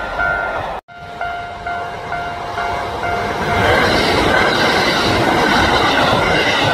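A train running past with a dense rumble of wheels on rail, over a railway level-crossing warning bell ringing about twice a second. The sound cuts out abruptly for a moment about a second in.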